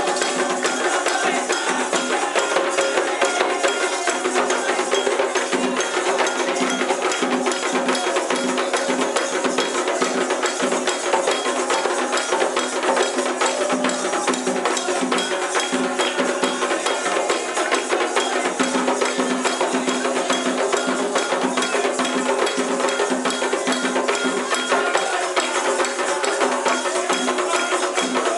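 Candomblé ceremonial percussion: atabaque hand drums with a metal bell pattern keeping time, a dense, unbroken rhythm at a steady loudness.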